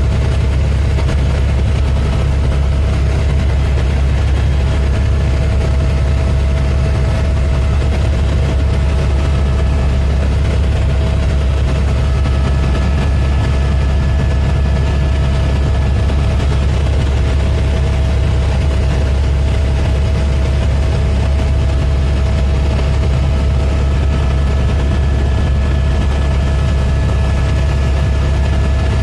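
Helicopter in flight: a loud, steady low rumble of rotor and engine with a thin steady whine above it.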